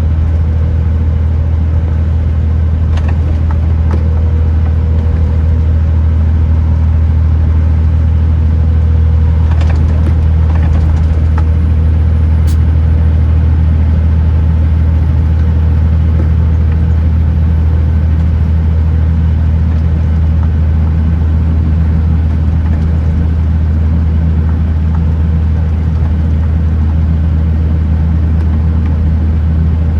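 Kenworth T909 truck's diesel engine droning steadily under way, with road noise and a few faint clicks. A faint high whine rises slowly through the middle.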